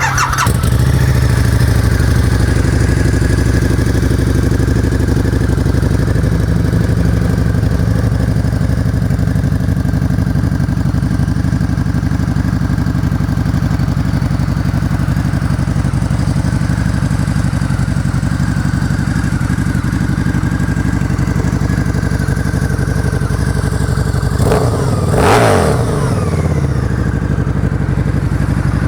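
2012 Harley-Davidson Night Rod Special's liquid-cooled 1250cc V-twin, fitted with a new SuperTrapp exhaust, catching right at the start and then idling steadily. There is one quick rev of the throttle, rising and falling, near the end.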